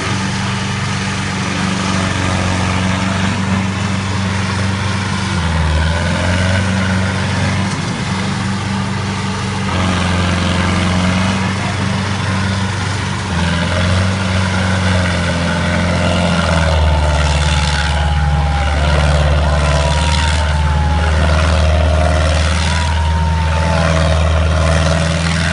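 Sonalika tractor's diesel engine running under changing load, its steady low drone stepping up and down in pitch several times. In the second half, short gliding higher tones and a few sharp knocks sound over the engine.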